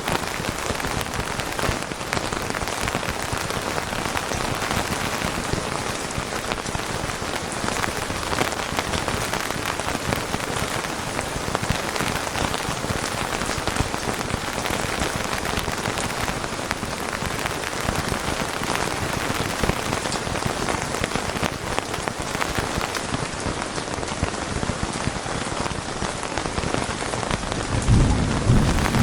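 Steady rain falling, a dense even hiss of drops. Near the end a low rumble of thunder rises under it.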